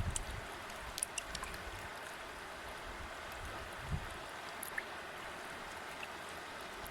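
River water flowing steadily over rocks, with faint little splashes and a brief low thump about four seconds in.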